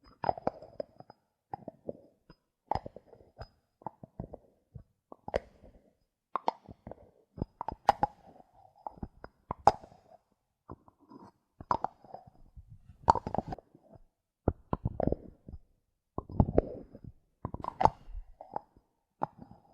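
Bottle caps handled close to a microphone: irregular clicks and taps, a few every second, some followed by brief scraping or rubbing.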